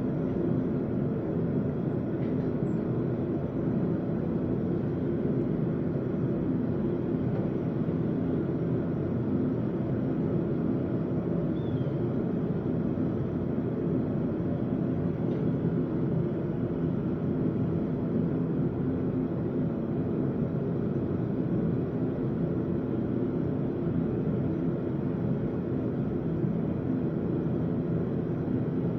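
A blacksmith's forge running with a steady, even roar and no hammer strikes.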